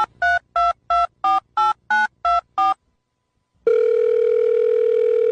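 Telephone touch-tone dialing: about nine quick keypad beeps, each two tones at once, roughly three a second. After a short pause a steady telephone tone sounds for about two seconds.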